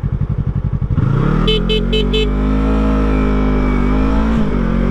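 2017 Yamaha YZF-R3's parallel-twin engine pulsing slowly at idle, then revving up about a second in and running steadily as the bike pulls away, with a brief dip in pitch about four seconds in. Four quick beeps sound about a second and a half in.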